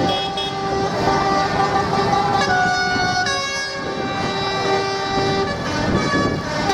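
Horns on parading tractors tooting again and again, several different pitches overlapping, some held for about a second, over a steady rumble.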